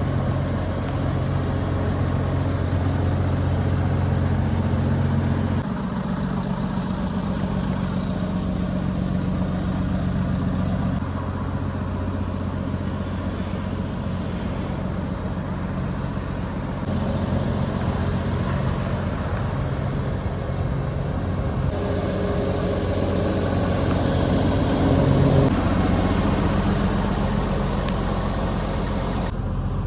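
2015 DAF LF220 lorry's 6.7-litre diesel engine running steadily at idle. The tone shifts abruptly every five or six seconds as the recording cuts between takes.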